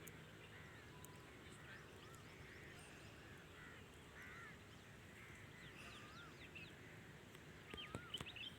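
Many small birds chirping and twittering faintly, short looping whistled calls overlapping one another, with a louder flurry of calls and a few sharp clicks near the end.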